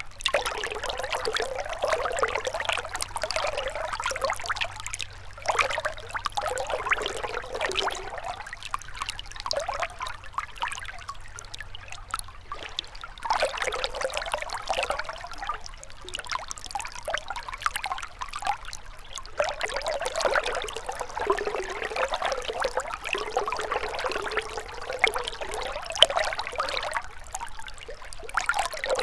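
Gentle river water flowing and splashing, a steady rush that swells and eases in irregular waves every few seconds.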